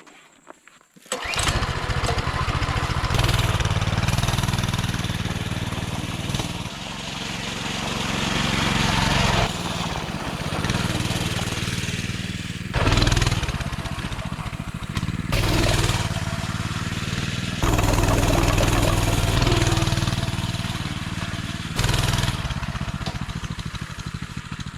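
Mini bike's small engine starting about a second in, then running and revving up and down repeatedly.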